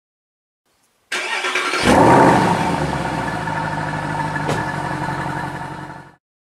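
Car engine starting: a short starter crank about a second in, catching with a quick rev around two seconds in, then settling into a steady idle that fades out near the end.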